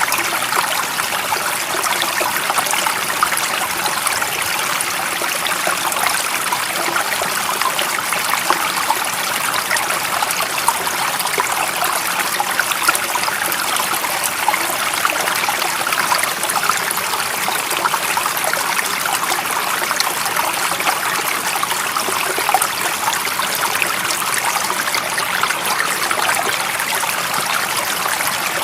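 Steady running water of a stream, a continuous bright babbling rush with fine splashing and trickling detail, unchanging in level.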